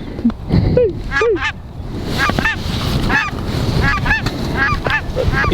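A hunter's duck call being blown to bring in passing birds: a couple of low quacking notes, then a run of short, high, repeated calls. Wind noise rises about two seconds in.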